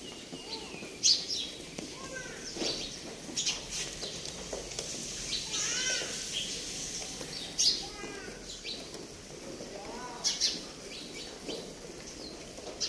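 Small birds chirping on and off, short sharp calls several times over a steady background noise.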